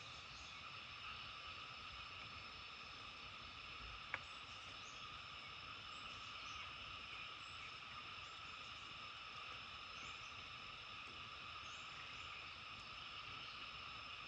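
A faint, steady massed chorus of frogs. A single sharp click sounds about four seconds in.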